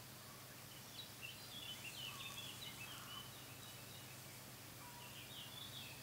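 Faint distant bird chirps, short high calls in two spells, the first about a second in and the second near the end, over a steady low hum and hiss.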